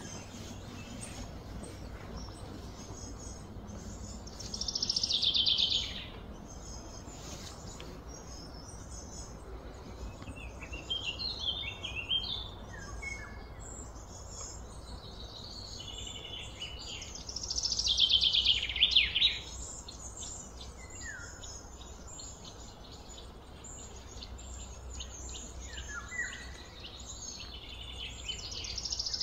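Birds singing and chirping over a low steady background rumble. A loud trilled call that falls in pitch comes three times: about five seconds in, about eighteen seconds in, and again at the end, with shorter chirps between.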